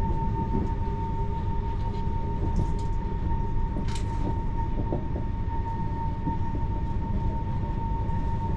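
TER regional train running at steady speed, heard from on board: a constant low rumble with a steady high whine and scattered clicks and rattles, one sharper click about halfway through.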